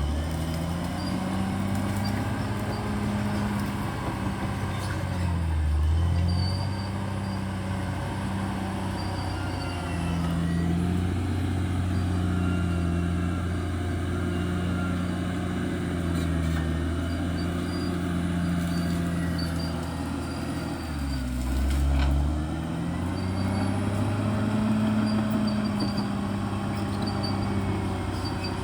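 Bulldozer's diesel engine running under load, its pitch dipping briefly and recovering about five times, most deeply a little past twenty seconds in.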